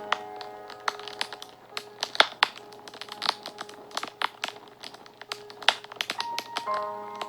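Wood fire crackling, with many sharp irregular pops, over soft background music that holds sustained notes.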